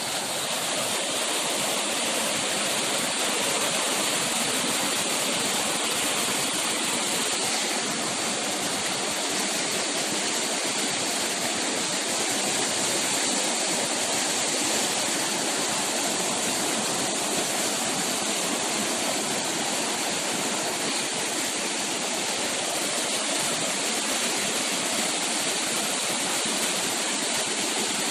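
Steady rushing of a forest stream, an unbroken hiss with no pauses or single events.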